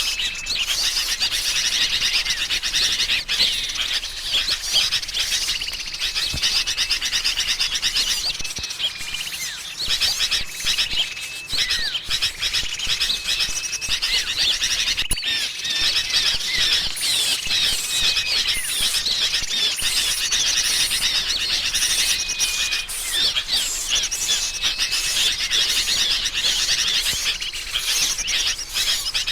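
Dense, continuous chorus of many small songbirds chirping and twittering: a bird-trapping lure mix built on agitated sooty-headed bulbul (kutilang) calls, with short, level whistled notes repeating every few seconds.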